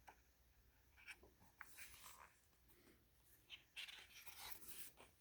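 Faint paper rustling and soft handling clicks: a picture book's page being turned.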